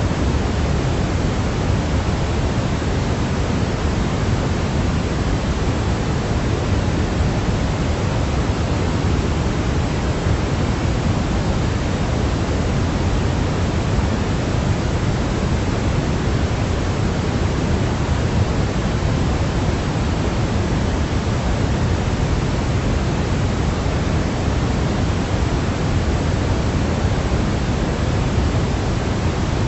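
Steady, unchanging sleep noise: an even hiss with more weight in the low end than the high, closer to pink noise than true white noise.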